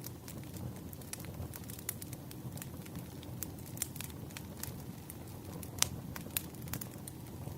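Burning firewood crackling: irregular small pops and snaps over a steady low rumble, with one sharper pop near the end.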